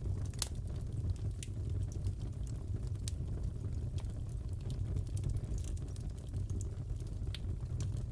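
Crackling fireplace: a steady low rumble of burning wood with scattered sharp pops and crackles every second or so.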